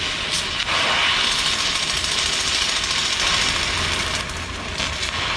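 Electric arc welding on the steel parts of a moped's chain adjuster: a loud, steady welding arc that eases briefly about four seconds in.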